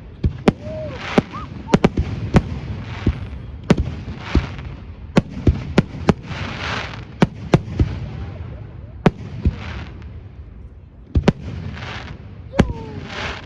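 Aerial fireworks bursting in quick succession: sharp bangs roughly every half second to second, with crackling and hissing between them and a short lull about two-thirds of the way through.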